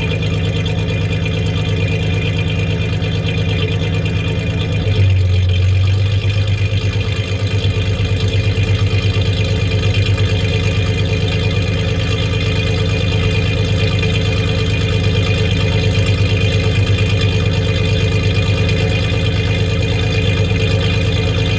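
1993 Ford Ranger's 3.0 V6 idling with a cylinder misfiring. About five seconds in, the idle note changes, turning deeper and more uneven and slightly louder, then holds steady.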